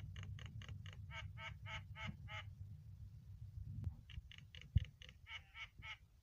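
Javan myna (jalak kebo) calling in two runs of quick repeated notes, about five a second, the runs about a second and a half apart.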